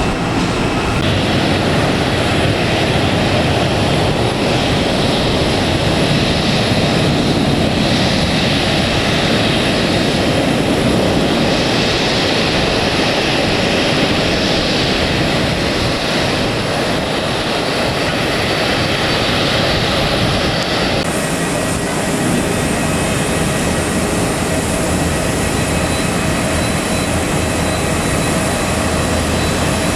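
Jet airliner engines running close by, a loud, steady noise throughout; the higher hiss drops away about twenty seconds in.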